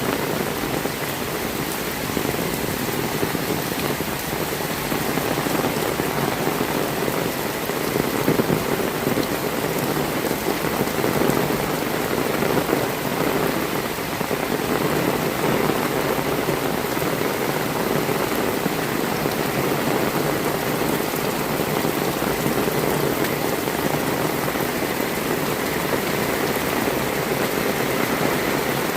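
Heavy rain falling steadily on hard surfaces, a dense, even hiss of many drops with a few louder splatters.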